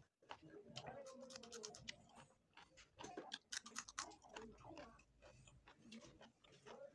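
Faint, close chewing and lip-smacking of a person eating with his hands, an uneven run of small wet clicks, thickest about halfway through.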